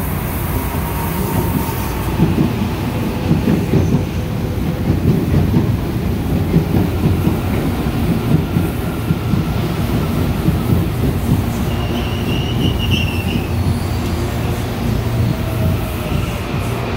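CPTM Série 7000 electric commuter train passing close by as it pulls into a station: a steady rumble with wheels clacking over rail joints. A brief high wheel squeal comes about twelve seconds in.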